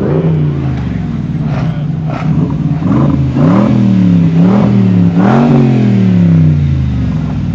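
Car engine idling, blipped once at the start, then revved three times in quick succession and settling back to idle.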